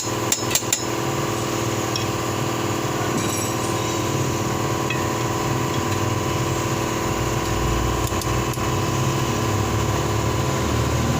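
Metal tools clinking and tapping, with a cluster of sharp clinks about half a second in and a couple more around eight seconds, over a steady mechanical hum.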